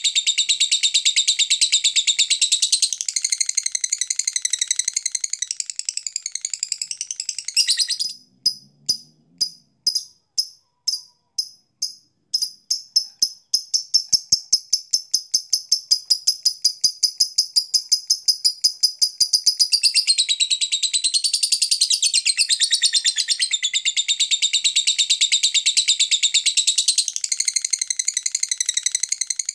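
Lovebird singing a long, rapid, high-pitched chattering song. About eight seconds in it breaks into separate chirps, about two a second, that quicken into a fast trill, then goes back to continuous chatter.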